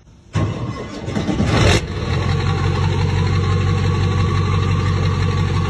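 Ford 7.3L Powerstroke turbo-diesel V8 starting through a six-inch garbage-truck stack exhaust. It comes in suddenly and runs louder for about a second and a half, then settles into a steady idle.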